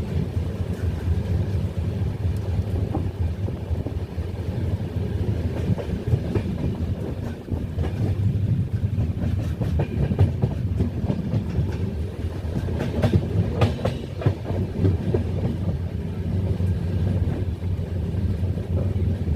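Passenger train running at speed: a steady rumble of wheels on rails with clickety-clack, and a cluster of sharper clacks about two-thirds of the way through.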